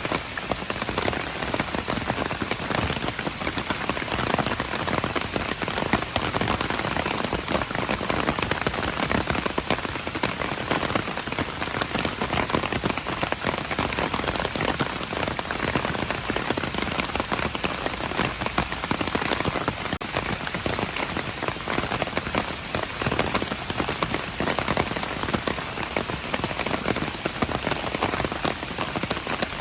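Steady rain falling, a dense continuous patter of countless drops hitting hard surfaces.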